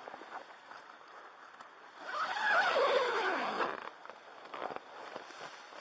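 A vehicle passing by: it swells up about two seconds in, its pitch sliding steadily down as it goes past, and fades away after a second and a half.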